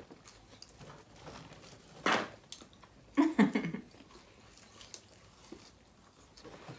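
People chewing and eating close to the microphone: soft mouth clicks and chewing, one short sharp mouth noise about two seconds in, and a brief hummed 'mm' about a second later.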